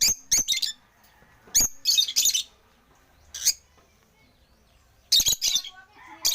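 African lovebirds chirping: a quick run of short, sharp, high-pitched calls at the start, then scattered single chirps and little clusters with quiet gaps between.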